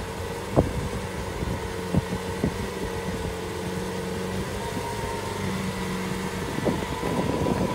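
Lamborghini Aventador's V12 engine idling steadily, with a few short clicks over it.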